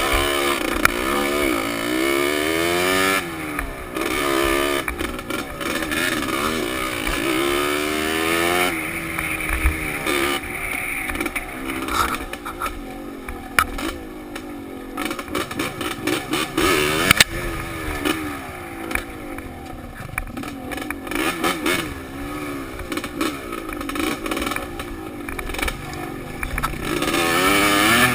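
Dirt bike engine heard from a helmet-mounted camera, revving up and falling back again and again as the throttle is worked along a trail, with knocks and rattles from the rough ground. Through the middle it runs quieter and mostly off the throttle, then pulls hard again near the end.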